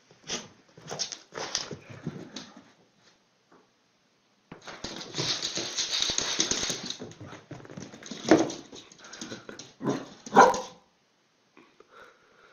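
Small dogs barking at a lemon slice held to their noses. There are short barks, a longer harsher stretch in the middle, and the loudest barks near the end.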